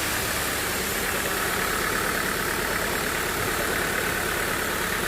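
Sawmill machinery running steadily: a motor hum with a constant high whine over it, with no change in speed.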